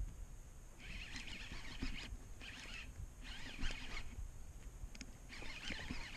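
Birds calling in repeated bursts of about half a second to a second, with a low wind rumble on the microphone.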